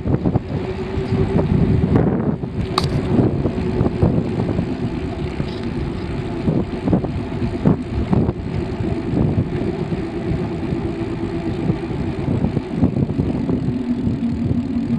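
Rumble of a bicycle riding along a path, with wind buffeting the microphone and scattered small knocks and rattles.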